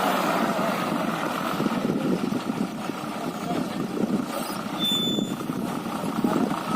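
Diesel engine of a JCB backhoe loader running steadily at work, with a brief high-pitched chirp about five seconds in.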